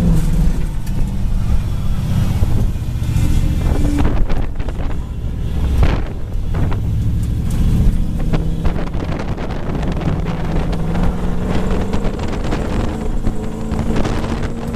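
Drift truck's Toyota 1UZ-FE V8 running as the truck is driven, its pitch shifting with the throttle, with wind buffeting the microphone.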